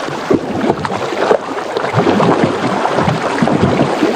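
Water sloshing and splashing in a dense run of short, irregular splashes.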